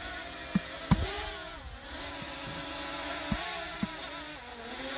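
DJI Mavic Mini drone's propellers buzzing as it descends to land, the whine wavering up and down in pitch, with a few short knocks about half a second and a second in and twice more past three seconds.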